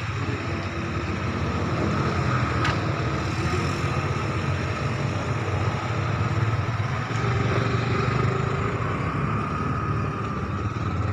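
Steady hum of a running engine, with one sharp click about two and a half seconds in.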